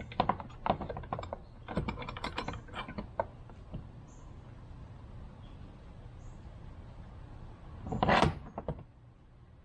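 Quick light metal clicks and rattles of a handmade steel slide-bolt latch being handled and worked for the first few seconds, then one louder, longer clunk about eight seconds in.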